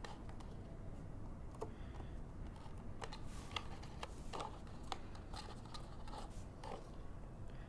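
Light clicks, taps and brief rustles of paper and chipboard pieces being handled and pressed down onto a box, fixing a foam-adhesive-backed cut-out in place.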